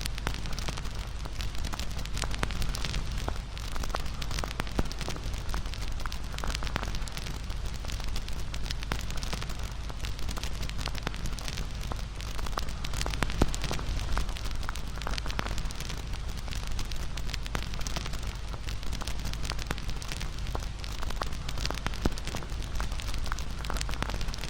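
Wood fire crackling with many small pops and ticks over a steady hiss, with a sharper pop about thirteen seconds in and another near twenty-two seconds.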